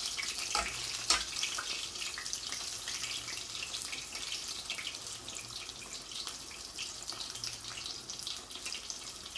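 Breadcrumbed chicken fillet shallow-frying in sunflower oil in a frying pan: a steady crackling sizzle, with a couple of light knocks in the first second or so.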